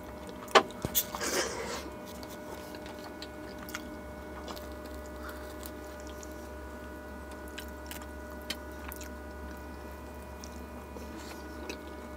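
Close-miked eating sounds: a person chewing mouthfuls of rice and naan eaten by hand, with scattered small mouth clicks. A sharp click about half a second in and a brief crunchy rustle just after stand out over a steady low hum.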